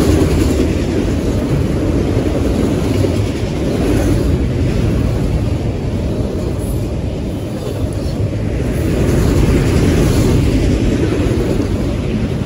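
Autorack freight cars of a CSX manifest train rolling past: a loud, steady rumble of steel wheels on the rails that swells and eases as the cars go by.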